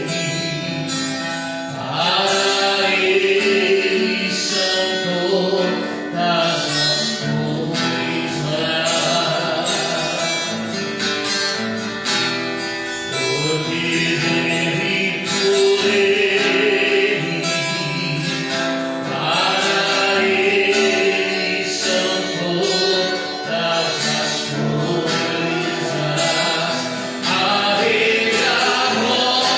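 A Christian worship song sung in Portuguese, with instrumental accompaniment and a steady beat. It runs on without a break.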